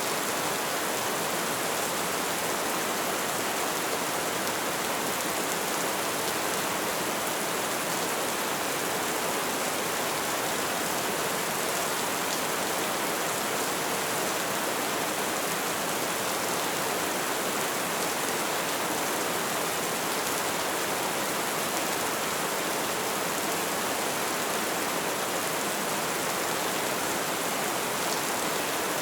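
Light rain falling steadily, an even hiss of many small drops on a surface.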